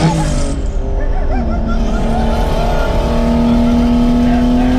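Turbocharged BMW inline-six accelerating hard under load, heard from inside the cabin: the engine note drops at an upshift right at the start, then climbs steadily through the next gear.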